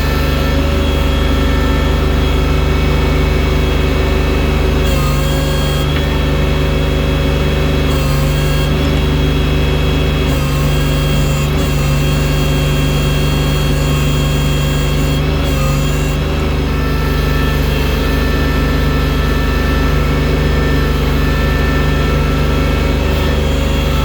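Engine of a snow-moving machine with a loader bucket, running steadily at an even speed.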